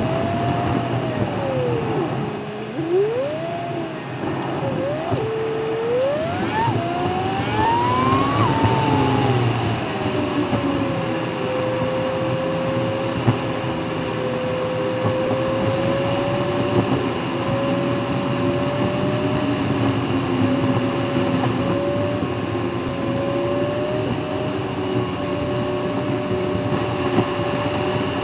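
Audi TT engine and tyre noise heard from inside the cabin. The engine note drops about two seconds in, then climbs in several steps with short breaks between them, as through gear changes, up to about eight seconds in. It then eases back and settles into a steady drone at cruising speed.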